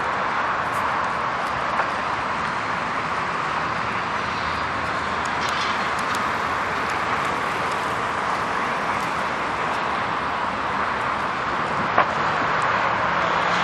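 Steady rushing noise of a vehicle on the move, with a faint low hum beneath it and a single sharp click near the end.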